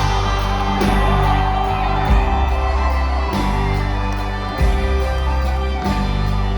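A country band playing live and loud, with a steady bass line and drum hits. Crowd whoops and shouts ring out over the music.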